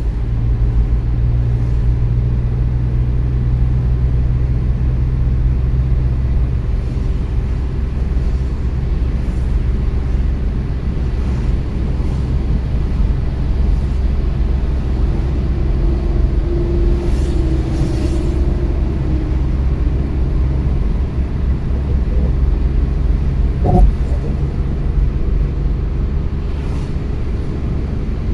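A car driving along at steady speed: continuous low rumble of engine and tyres on the road. A single short sharp knock about three-quarters of the way through.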